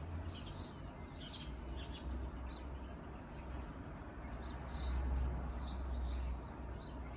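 Small birds chirping in short, scattered calls, over a steady low rumble that swells about five seconds in.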